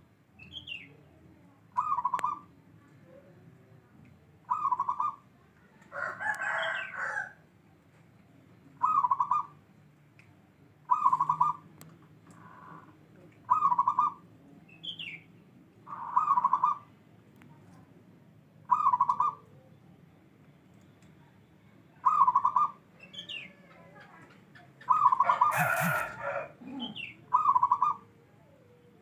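Zebra dove (perkutut) cooing over and over, short trilled coos about every two to three seconds. A rooster crows twice in the background, at about six seconds and again near the end, with a few faint chirps from other birds.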